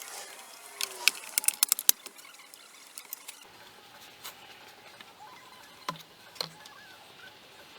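Hand tools clicking and tapping on metal during work under a golf cart: a quick run of sharp clicks about a second in, then a few single clicks spaced apart.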